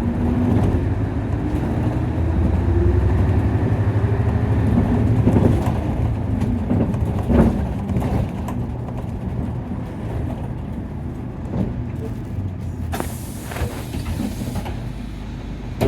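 Nissan Diesel KC-UA460LSN city bus heard from inside: the diesel engine pulls with a rising pitch for about five seconds, then eases off. There is a single knock a little past the middle, and a short hiss of compressed air near the end.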